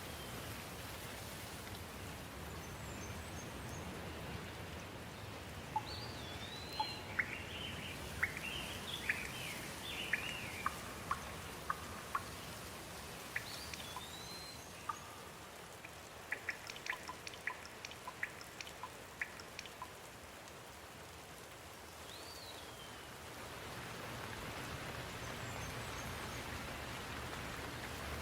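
Steady rain falling, with a bird repeating a short slurred whistle every several seconds. Between the whistles come clusters of quick chirps and sharp ticks.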